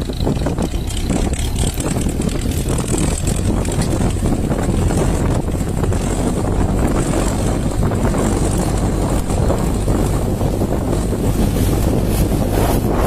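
Homemade tractor's D-240 four-cylinder diesel engine running steadily, with wind noise on the microphone.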